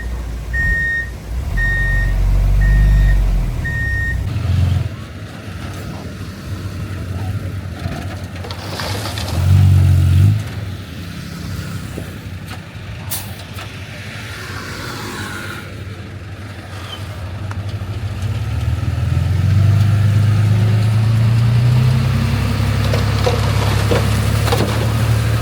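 Heavy diesel earthmoving machinery running, with a reversing alarm beeping about once a second that stops about four seconds in. There is a short loud surge of engine noise around ten seconds in, and the engine runs louder from about two-thirds of the way through.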